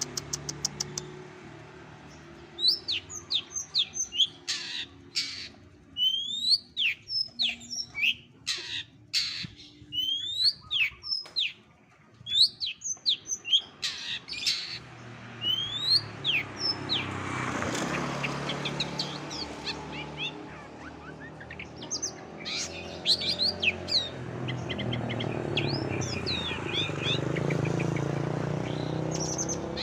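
Songbird calling in quick series of high chirps and downward-sweeping whistled notes, with some harsh rasping notes in the first half, over a low steady background hum.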